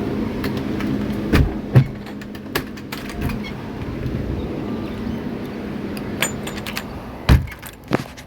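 A steady mechanical hum with a handful of sharp knocks and clicks, the loudest about two seconds in and again near the end.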